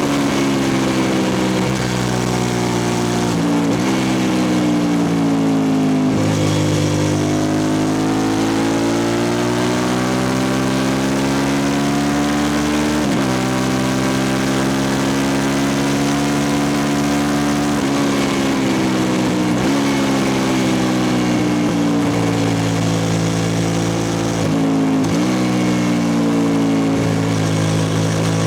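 2003 Suzuki SV650S's V-twin engine running loud through a Lextek exhaust with no dB killer. The engine note slowly rises and falls, with a sudden step in pitch every few seconds.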